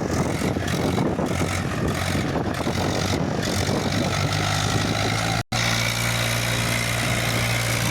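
Tractor's diesel engine running steadily, with a brief cut-out about two-thirds of the way through, after which it goes on as a steadier low hum.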